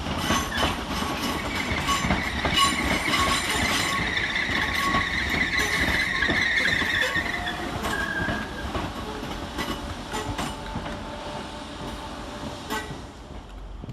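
Merseyrail Class 507 electric multiple unit pulling in and slowing to a stop: wheels clicking over rail joints, with a high-pitched squeal for several seconds as it brakes. The sound grows quieter near the end.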